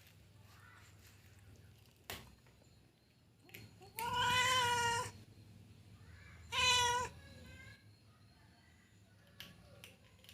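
Stray cat meowing twice: a meow lasting about a second, about four seconds in, then a shorter one near seven seconds, as it begs for food.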